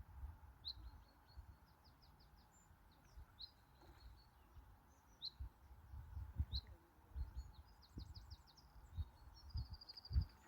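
Songbirds singing short, high phrases about every two or three seconds, each a sharp note followed by a quick run of notes, over low, irregular rumbling thumps.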